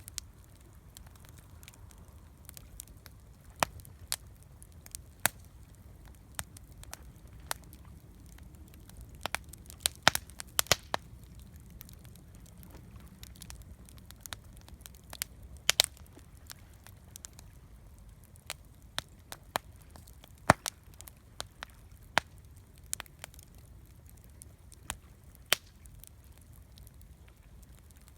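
Wood campfire crackling, with sharp pops at irregular intervals and a quick run of pops about ten seconds in, over a faint steady low rumble.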